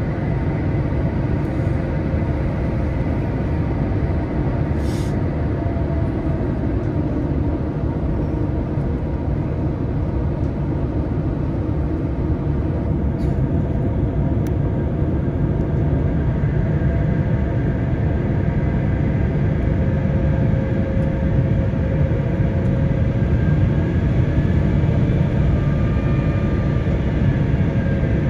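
Airbus A350-900 cabin noise on the landing approach: a steady deep rumble of airflow and Rolls-Royce Trent XWB engines, heard inside the cabin. It grows slightly louder about halfway through, with a faint whine that shifts in pitch.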